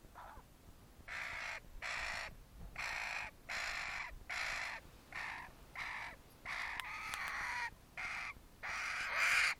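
A young bird squawking harshly to beg for food, about a dozen short rasping calls in quick, irregular succession.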